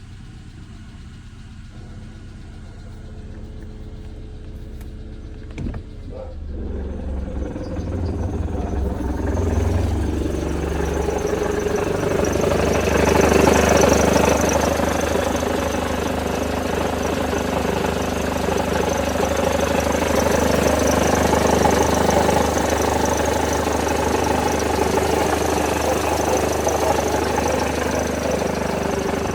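Mercedes-Benz W211 E200 Kompressor's supercharged four-cylinder engine running, with the knocking sound it is posted to show. It is faint at first, with a sharp knock about six seconds in, and grows louder over the next several seconds before holding steady.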